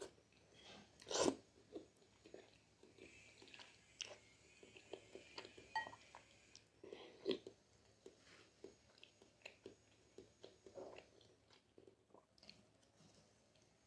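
Close-miked eating of thick jjajangmyeon noodles: one loud slurp about a second in, then steady wet chewing with many small mouth clicks and smacks. A faint high whine comes and goes in the background, from a neighbour cutting ceramic tiles.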